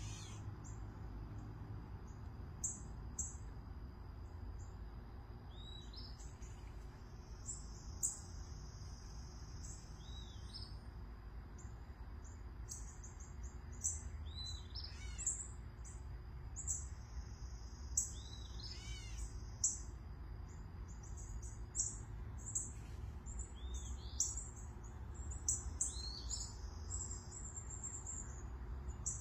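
Several songbirds chirping and calling in the trees: short high chirps and downward-slurred calls scattered throughout, over a steady low background rumble.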